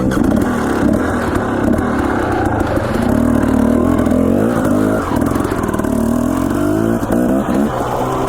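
Dirt bike engine running on a rocky trail, revs rising and falling with the throttle, with knocks and clatter from the bike over the rocks.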